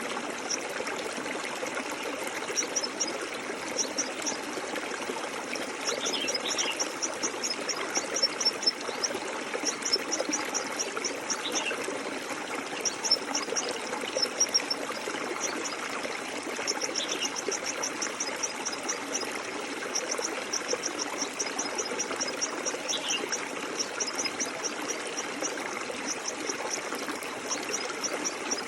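Flowing stream running steadily, with runs of rapid high chirps repeating in bursts and a short falling bird call about every five or six seconds.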